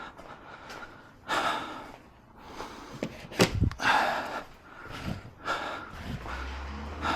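A man breathing hard and huffing with effort as he tugs at a car's rear seat that is caught on a hook, with a sharp knock about three and a half seconds in.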